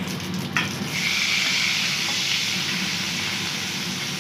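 Chopped okra tipped into hot oil and spluttering mustard seeds in a stainless steel kadai, starting a loud, steady sizzle about a second in as it begins to sauté. A short clink of the ladle on the pan comes just before.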